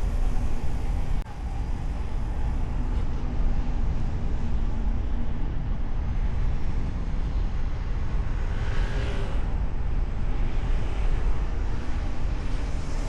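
Car driving on city streets, heard from its hood: a steady low rumble of engine and road noise. A brief higher-pitched noise rises over it about nine seconds in.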